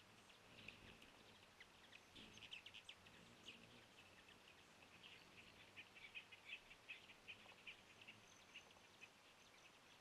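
Faint chipping and twittering of small birds: short, quick, high calls coming several a second, busiest in the middle, over quiet outdoor background noise.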